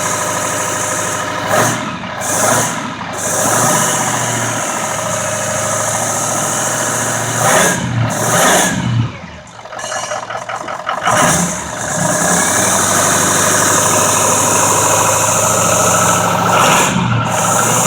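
Ford 6.0L Power Stroke V8 turbo diesel idling in a 2006 F-250 Super Duty, revved briefly a few times.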